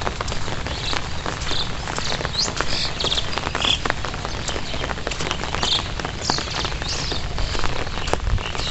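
Heavy rain falling steadily, with many close drops ticking sharply, and short high chirps every second or so.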